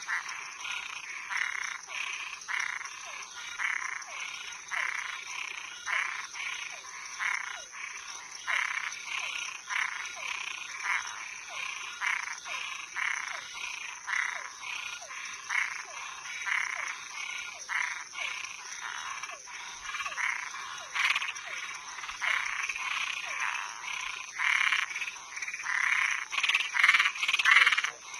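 A chorus of frogs and tree frogs calling: short croaking calls repeating about twice a second, a little louder near the end, over a steady high-pitched hum.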